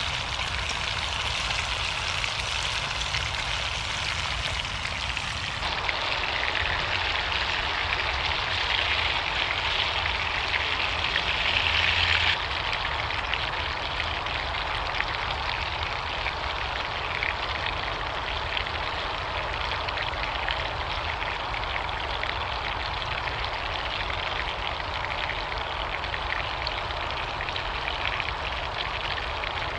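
Burgers, bacon and onions sizzling in a frying pan over a Bushbox XL wood stove: a steady sizzle, a little louder between about six and twelve seconds in.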